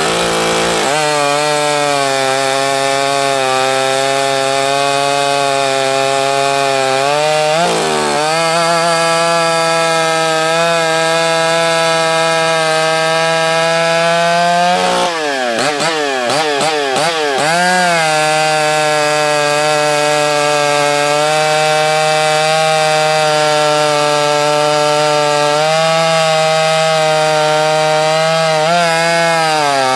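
Ported Husqvarna 2100 CD two-stroke chainsaw cutting wood at full throttle, its engine note holding steady under load through long cuts. The revs swing briefly up and down a few times as the bar goes in and out of the wood.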